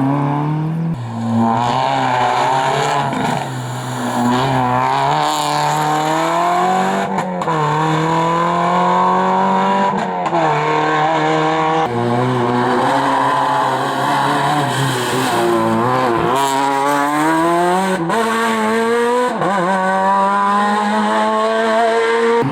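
Rally car engine under hard acceleration, its pitch climbing repeatedly and dropping sharply at each gear change or lift, several times over.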